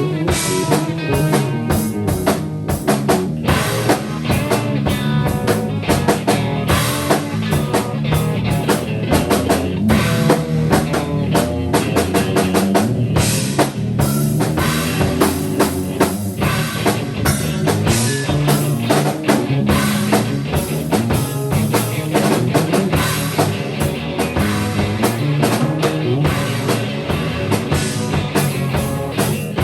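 A live band improvising rock music, with a drum kit playing busily over guitar and other instruments.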